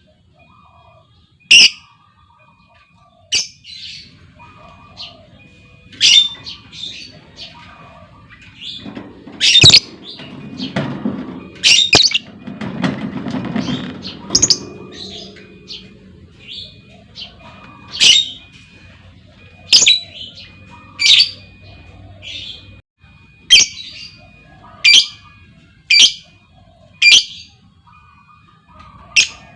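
Lovebird calling in short, sharp high chirps and squawks, about a dozen loud ones spaced irregularly a second or more apart with fainter calls between. It is a female lovebird's call, of the kind played as a lure to set other lovebirds off into long trilling (ngekek).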